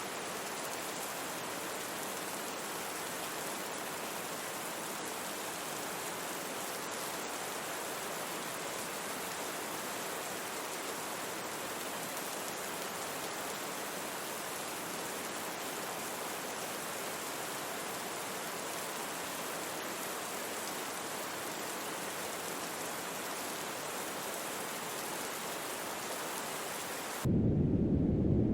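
Steady rain hiss. Near the end it cuts abruptly to louder brown noise, a deep rumbling hiss with the treble gone.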